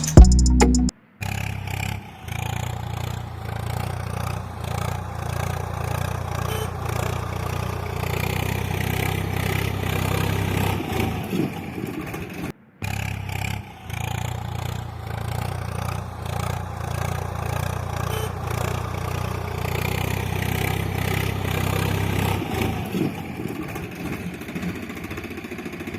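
Small motor of a DIY model tractor running steadily with a low hum. The sound breaks off briefly about a second in and again near the middle.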